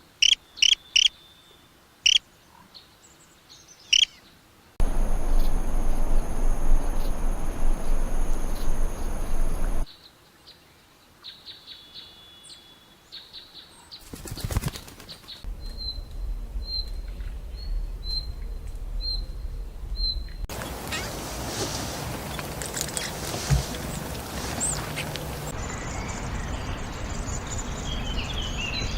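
Small birds chirping in short separate calls, broken by two stretches of loud steady rushing noise. Near the middle there is a brief fast flutter of wingbeats, followed by a run of evenly spaced high chirps.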